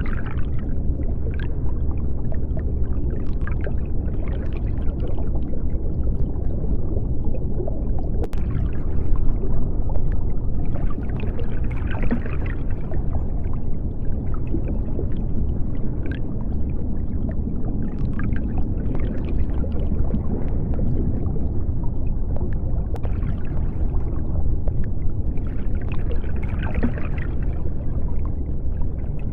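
Underwater ambience: a steady deep rumble with bubbling and scattered faint clicks, one sharper click about eight seconds in.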